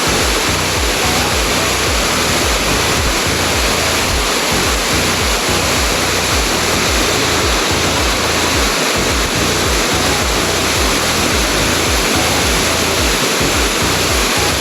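Waterfall pouring over rocks: a loud, steady rush of falling water.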